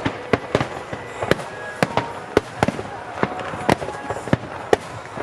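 Aerial fireworks shells bursting in rapid succession: a string of sharp bangs, about two a second, of uneven loudness.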